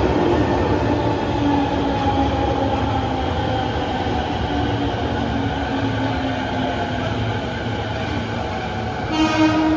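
The 209-series Mue-train electric train pulling in, its running gear rumbling steadily while its motor tones glide slowly down in pitch as it slows. A short pitched sound comes near the end.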